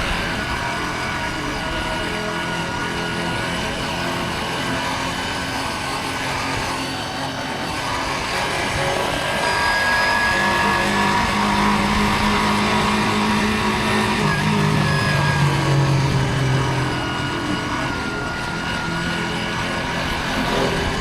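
Motorcycle engine running on the move, over a steady rush of air noise. The engine note holds, then drops to a lower pitch a little past the middle.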